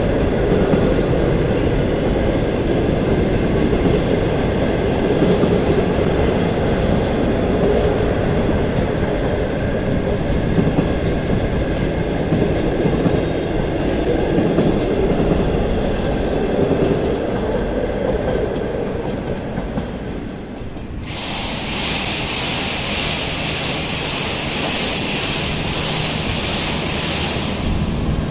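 Passenger train of green coaches rolling past, a steady rumble with wheels clattering over the rail joints. About three-quarters through, a loud high hiss starts abruptly and cuts off just as suddenly near the end.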